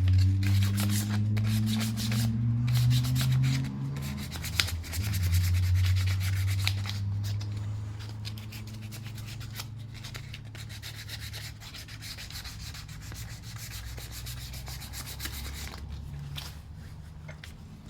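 Sandpaper rubbed back and forth by hand over a car battery post, cleaning off overspray and corrosion, in quick repeated scraping strokes that die away near the end. A low hum runs underneath, rising in pitch at first and loudest in the first half.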